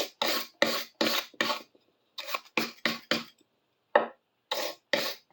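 Short rubbing strokes in quick runs, about three a second, as a chisel just lifted from a baking soda bath is scrubbed by hand.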